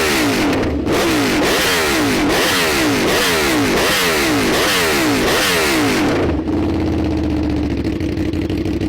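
Motorcycle engine accelerating hard. Its pitch climbs and drops sharply again and again in quick succession, like rapid gear changes, and near the end it settles into a steady note.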